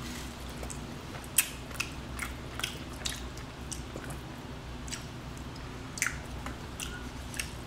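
Close-miked chewing and biting of chicken wings, with scattered wet smacking clicks of the mouth, the sharpest about one and a half seconds in, over a low steady background hum.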